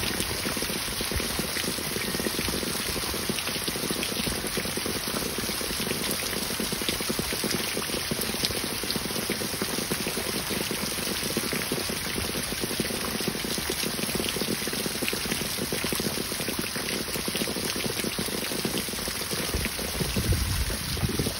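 Heavy rain falling steadily, a dense patter of drops hitting grass, gravel and the wet road.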